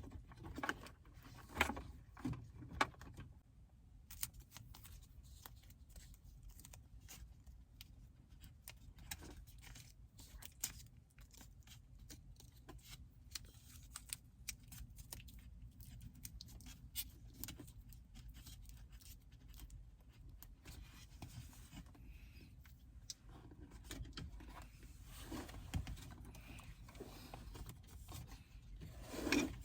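Scattered light clicks, taps and scrapes of hands working on a car's plastic center console trim and parts, over a steady low hum.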